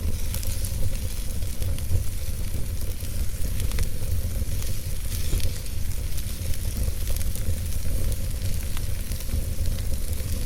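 Campfire crackling with frequent small pops and snaps over a steady hiss, with a low wind rumble underneath.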